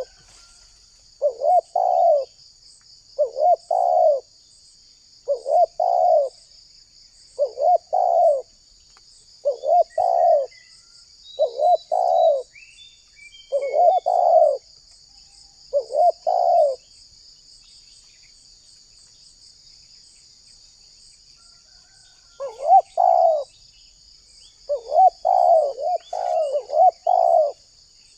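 Spotted dove cooing: a repeated short phrase of coos about every two seconds, breaking off for several seconds after the middle, then resuming in a quicker run near the end. A steady high insect drone, like crickets or cicadas, runs beneath.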